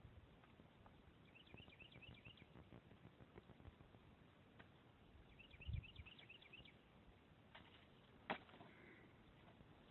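Near silence with a small bird singing twice, each time a quick run of high chirps lasting about a second. A soft low thump comes near the middle and a sharp click about eight seconds in.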